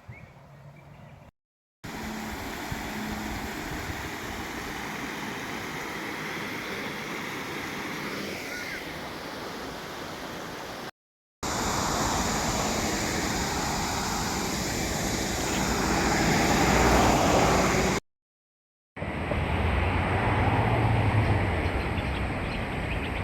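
Steady rushing wind and riding noise from a bicycle ride, in three clips cut apart by short silent gaps.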